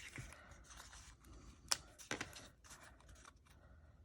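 Faint handling of paper and thin washi tape, with a few short sharp clicks, the clearest a little under two seconds in.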